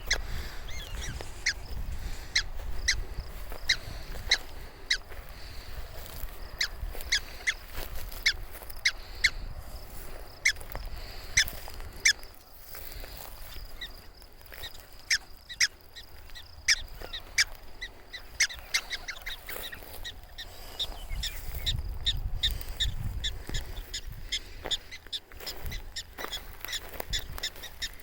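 Black-tailed prairie dogs giving repeated short, sharp alarm barks, roughly one or two a second, in protest at people close to their burrows.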